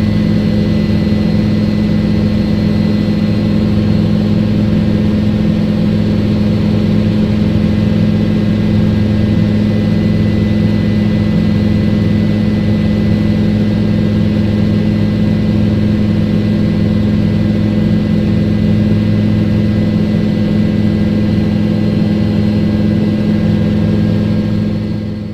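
Helicopter engine and rotor noise heard from inside the cabin in flight: a steady, unchanging drone with a strong low hum.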